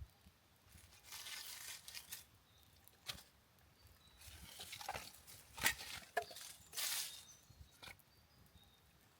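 Intermittent rustling, crinkling and tearing sounds in short bursts, with a few sharp clicks between them.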